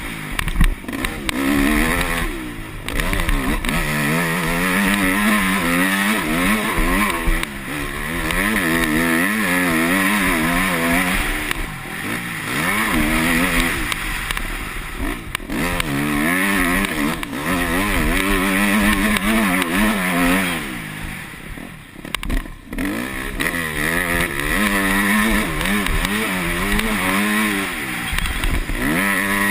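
Yamaha YZ250F single-cylinder four-stroke motocross engine being ridden hard, its revs rising and falling again and again as the rider works the throttle and gears, with a brief easing off a little past the two-thirds mark.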